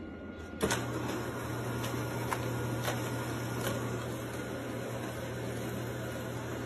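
Steady low electrical hum with room noise, starting abruptly with a click about half a second in, with a few faint ticks over it.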